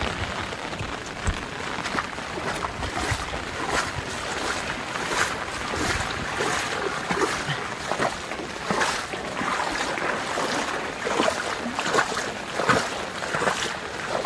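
Floodwater rushing and splashing, an uneven wash of noise broken by frequent irregular splashes.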